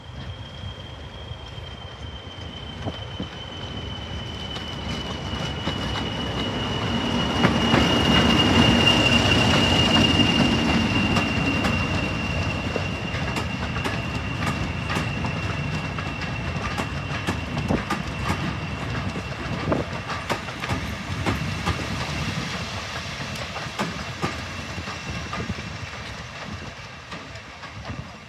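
Diesel-hauled train running past: the locomotive's engine rumble swells to its loudest about eight to ten seconds in, with wheels clicking over rail joints. A steady high-pitched whine sinks slightly in pitch as the train goes by.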